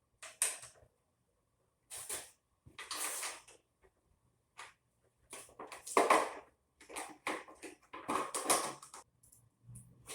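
Scattered clinks, scrapes and rustles of hand tools and small-engine parts being handled, irregular, with the loudest clatter about six seconds in and another around eight seconds.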